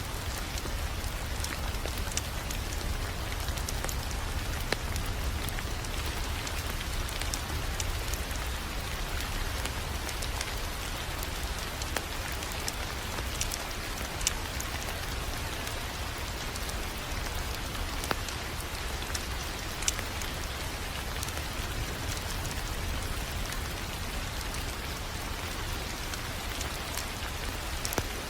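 Wood fire crackling: a steady hiss with a low rumble underneath and scattered sharp pops, a few of them louder.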